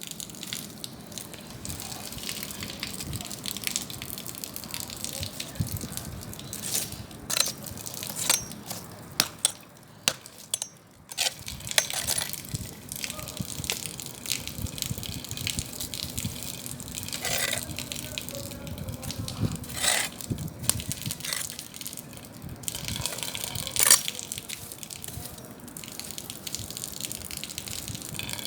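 Bonfire burning: a steady rushing hiss of flames with irregular sharp crackles and pops from the burning wood, one loud pop near the end.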